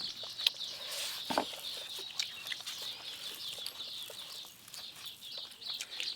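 Birds chirping busily in the background, with a few short clicks and taps scattered through.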